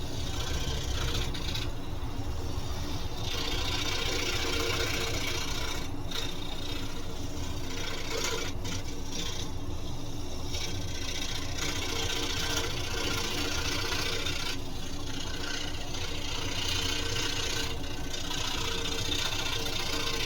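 Scroll saw running steadily with its blade stroking rapidly up and down. A higher rasp comes and goes as the blade cuts through wood.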